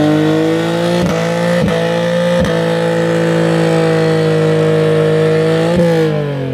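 Car engine held at high, steady revs for several seconds, with a few sharp pops, then the revs fall away near the end.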